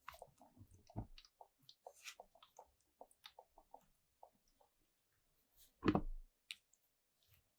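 A run of small, irregular clicks and taps of hard parts being handled, with a louder knock about a second in and a heavier thump about six seconds in.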